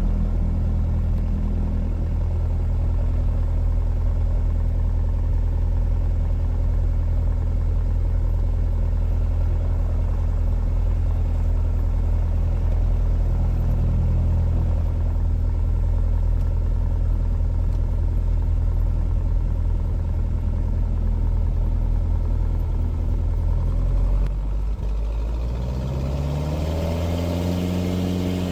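Cessna 177 Cardinal's piston engine and propeller running steadily. About 24 seconds in it drops slightly in level, then its pitch rises over the last few seconds as the engine speeds up.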